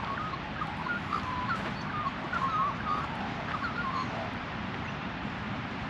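Birds calling in a quick run of short, squiggly notes that lasts about four seconds, over a steady low background rumble.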